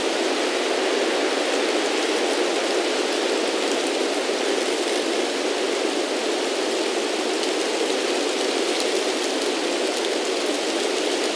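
A steady, even rushing noise that never breaks or swells, strongest in the low-middle range, with a faint fine crackle on top.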